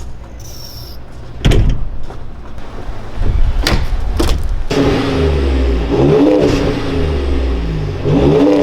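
2017 Ford Raptor's 3.5-litre twin-turbo EcoBoost V6 pulling hard under acceleration. Its pitch climbs and drops several times in the second half. A few sharp knocks come before it.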